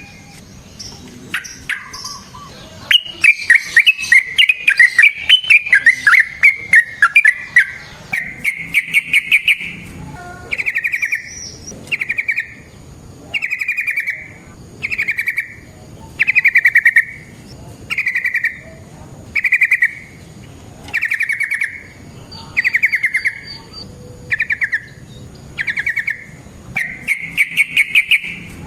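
Yellow-vented bulbul (trucukan) singing: a fast chattering run of notes sliding down in pitch, then a string of short bubbly phrases repeated about every second and a half.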